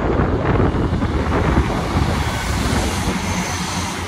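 EMR Regional diesel multiple unit passing close by as it pulls away from the station, its diesel engine running with a steady rumble and hiss of wheels on the track. Wind buffets the microphone.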